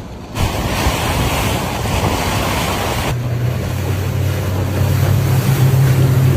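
Wind and water noise from the boat underway. About three seconds in, the steady low hum of the 40 hp Mercury outboard motor comes in under it and keeps running.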